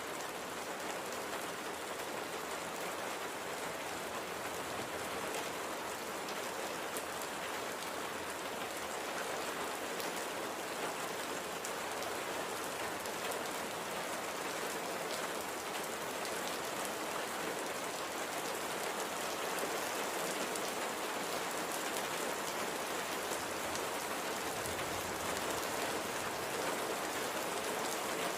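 Steady rain falling, with the fine patter of raindrops on a surface; it gets slightly louder in the last few seconds.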